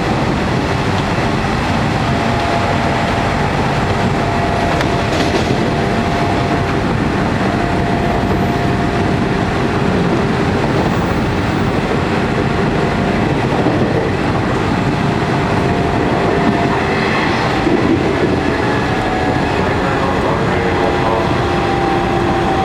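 Nishitetsu 5000 series electric train (1978 Kawasaki-built set 5111F) running at speed, heard inside the passenger car: a steady rolling rumble with wheel clatter over rail joints, and held humming tones from the motors and gears that shift in pitch now and then.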